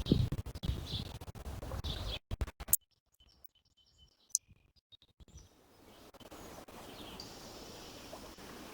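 Birds chirping in short repeated calls over a gusty low rumble. About two seconds in, the sound cuts out to near silence, broken by a few clicks. After about three seconds a steady faint outdoor hiss returns.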